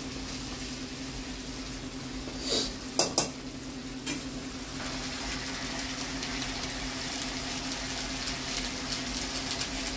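Tomato and ginger-cumin-chilli masala paste sizzling in hot oil in a wok, with a few sharp clinks of a metal spatula against the pan about two and a half to three seconds in, over a steady low hum.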